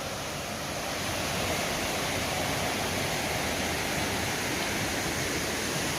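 Steady rushing of a fast mountain creek pouring over rapids and waterfalls, slightly louder from about a second in.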